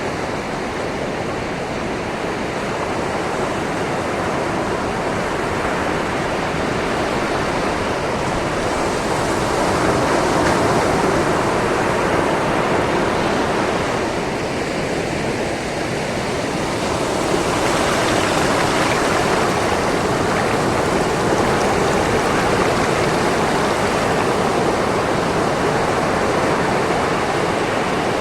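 Sea waves washing over a shoreline in a continuous rushing wash that swells and eases slowly, building around ten seconds in and again past the middle.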